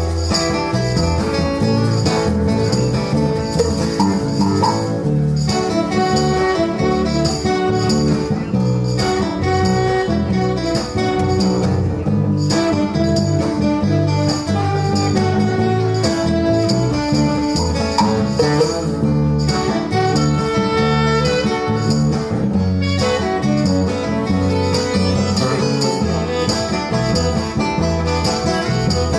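A live band playing an instrumental passage, with guitar at the front.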